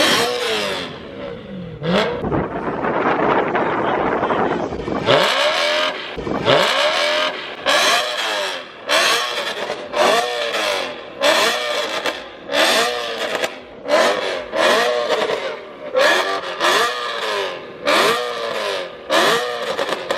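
BMW E92 M3's V8 engine being revved hard with a loud exhaust: one longer rev held for a few seconds, then quick blips of the throttle roughly once a second, each rising and falling in pitch.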